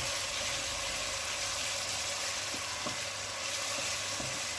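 Tinned tomatoes sizzling steadily as they fry in hot oil with onions in a cooking pot.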